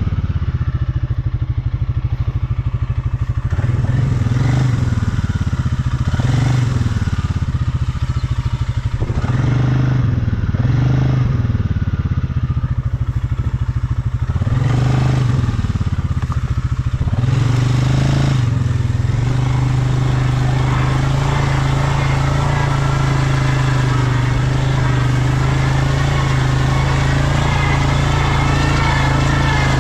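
ATV engine under way, its pitch rising and falling over and over as the throttle is opened and closed for about the first eighteen seconds, then holding a steady speed for the rest.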